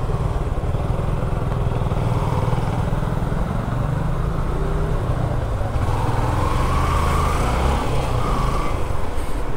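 Motorcycle engine running as the bike pulls away and rides on, a steady low rumble, with faint higher tones from other traffic about two-thirds of the way through.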